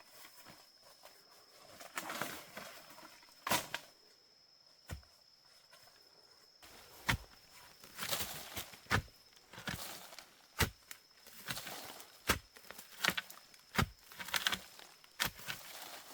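Irregular sharp knocks and short rustles, coming thicker in the second half. A steady high insect whine sounds through the first half.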